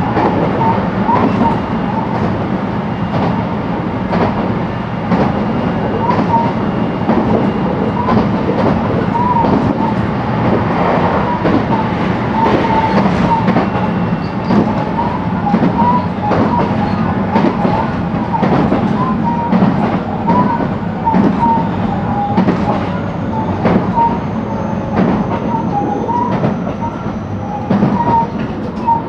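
JR West 223 series electric train running, heard from inside the motor car KuMoHa 223-2079: a steady rumble of wheels on rail with frequent short clicks from rail joints, and a thin wavering squeal throughout.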